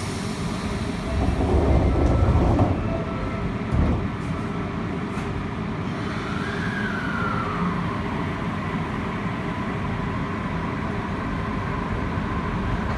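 Inside an Osaka Metro 80 series subway car: the doors shut with a thud about four seconds in, then the Hitachi IGBT VVVF inverter sounds as the train pulls away, a tone that rises and falls and then holds steady over the running noise of the car.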